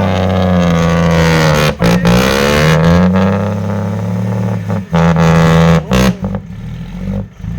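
Heavy truck engine revving hard under load, its pitch rising and falling. It drops away briefly a few times, with the revs easing near the end.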